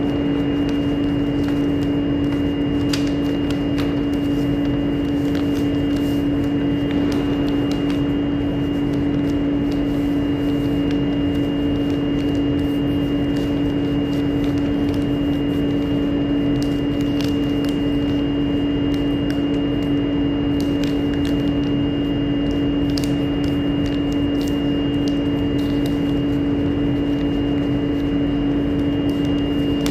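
Steady machine hum with a strong low tone and a thin high whine above it, unchanging throughout, with a few faint clicks here and there.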